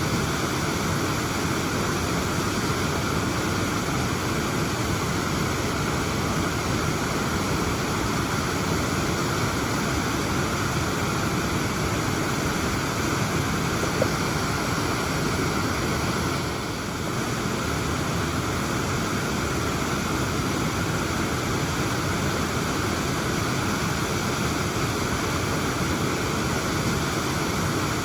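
Waterfall pouring steadily: an even, unbroken rush of falling water, with a single faint click about halfway through.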